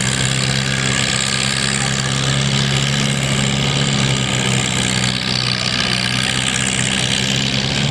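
Engine idling steadily with a constant low pitch, over a dense, even background noise.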